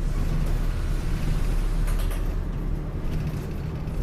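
City bus diesel engine and drivetrain running steadily, heard from inside the cabin as the bus pulls away from a stop.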